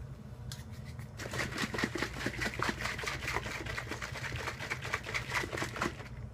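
Whey protein powder and water being shaken hard in a shaker bottle: a quick, even run of sloshing strokes, about four or five a second, that starts about a second in and stops near the end.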